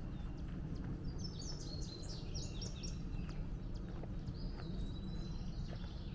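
A songbird singing a quick run of high notes about a second in, then a second phrase ending in a held note, over steady walking footsteps on the trail.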